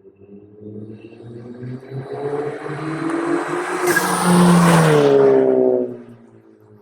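2014 Ford Fiesta ST's turbocharged 1.6-litre four-cylinder, fitted with a big turbo, a catless downpipe and a CP-E 3-inch catback exhaust, driving by at wide-open throttle. The exhaust note builds as the car approaches, is loudest about four to six seconds in, and drops in pitch as the car passes, then fades.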